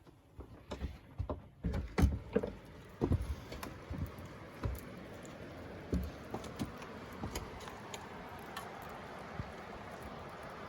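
A run of knocks and clatters over the first six seconds or so, like things being handled and a door moved, then steady rain hissing and pattering on a truck camper's roof after a night of heavy downpour.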